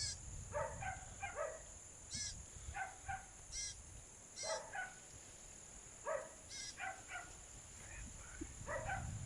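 A bird calling in short, clipped notes, often in quick runs of two or three, with thin high chirps between them, over a steady high insect drone.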